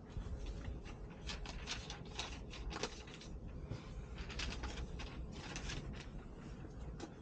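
Irregular rustling and clicking of things being handled, over a steady low rumble.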